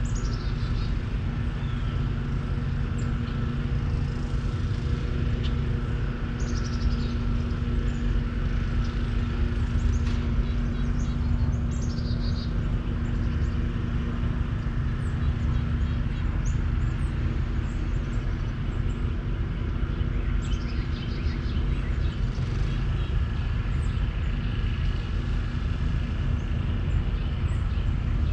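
Outdoor ambience: a steady low rumble with a faint droning hum, and birds chirping on and off throughout.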